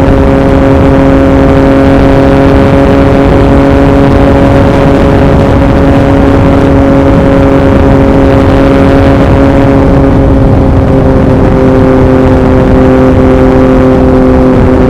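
Yamaha MT-09 (2021) inline-three engine through an Akrapovič racing exhaust, running at a steady highway cruise, its note holding even and easing slightly lower about ten seconds in. Heavy wind noise on the microphone runs underneath.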